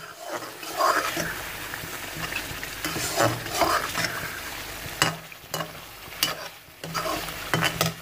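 Chicken karahi frying in oil in a metal karahi with a steady sizzle, while a metal spoon stirs and scrapes the masala and now and then clicks against the pan. This is the bhunai stage, where the masala is fried down until the oil separates.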